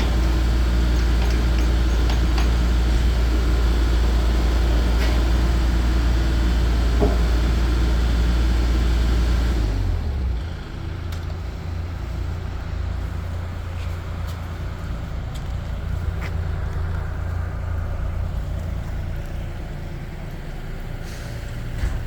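Kubota U50-5 mini excavator's diesel engine running steadily under high revs, then dropping to a quieter, lower running about halfway through.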